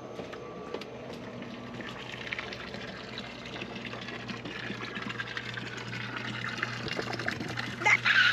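Water rushing, growing louder from about two seconds in, over a steady low hum, with a louder burst near the end.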